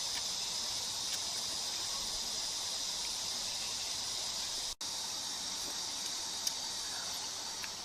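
Steady high-pitched chirring of insects, crickets or similar, with a brief dropout nearly five seconds in.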